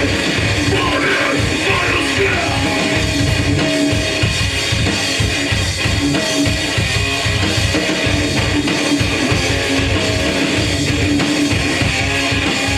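Hardcore punk band playing live and loud: distorted electric guitars and bass over fast, driving drums, continuous and dense.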